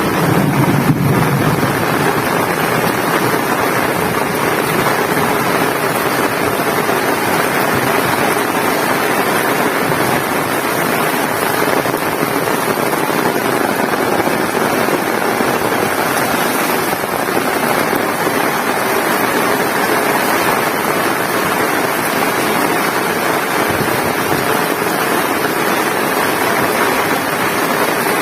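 Heavy rain falling in a steady downpour, a dense, even hiss. In the first second or so there is a low rumble of wind on the microphone.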